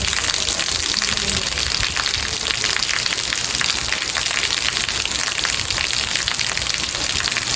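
Steady rain with a dense patter of individual drops over a continuous hiss.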